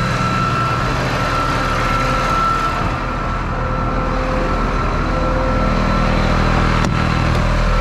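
Tow truck running on the road: a steady engine and road drone with a thin, steady high tone over it, and a single click about seven seconds in.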